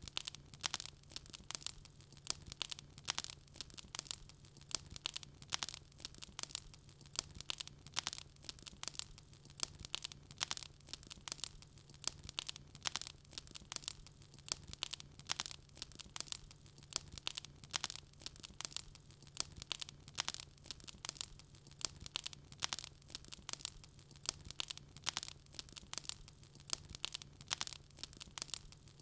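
Wood fire crackling in a fireplace: dense, irregular sharp pops and snaps, over a low steady hum.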